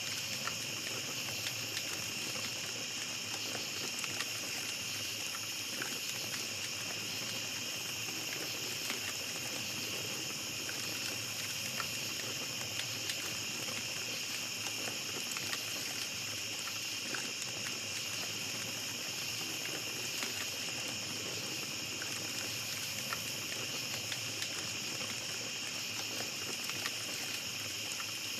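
Small campfire crackling with scattered pops over a steady, high-pitched chorus of night insects.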